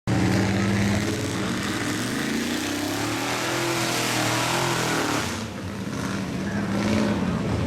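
Blue Chevy mud truck's engine running hard and revving, rising in pitch a few seconds in, over a loud hiss that cuts off sharply about five seconds in.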